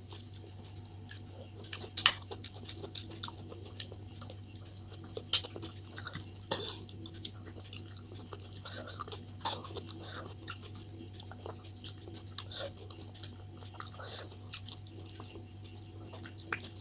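Close-miked chewing and mouth sounds of someone eating, with irregular wet smacks and small clicks.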